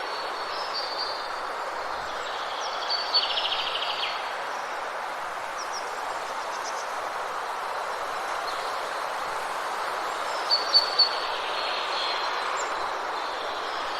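Forest ambience: a steady, even rushing hiss with songbirds calling over it, a short chirp and fast trill about three seconds in and a quick run of sharp chirps near eleven seconds.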